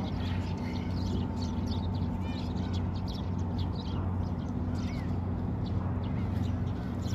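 A flock of Eurasian tree sparrows chirping, many short overlapping chirps, over a steady low hum.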